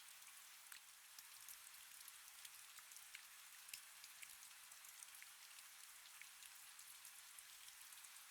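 Faint steady rain: an even hiss with many small raindrops ticking through it.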